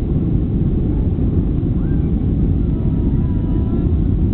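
Boeing 737-800's CFM56-7B jet engines at takeoff power: a steady, heavy low rumble.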